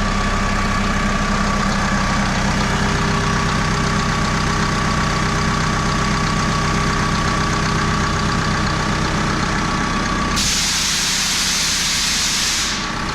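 Farm loader's diesel engine running steadily with a steady whine over it. About ten seconds in the whine stops and a loud hiss sounds for a couple of seconds.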